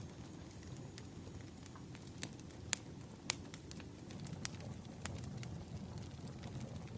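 Burning firewood crackling: irregular sharp pops and snaps over a low, steady rumble, with the loudest pops near the middle.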